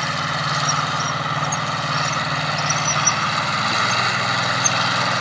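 Monster truck engine running steadily, a low even drone with no revving.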